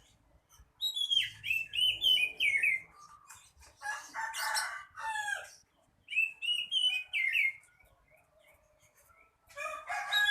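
Oriental magpie-robin (kacer) singing in short bursts of varied whistled phrases with brief pauses between them. About four seconds in and again near the end come lower, harsher calls.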